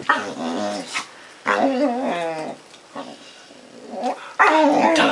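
Puppy vocalising in three drawn-out, wavering calls, the odd noises of a young dog, with the last call the loudest.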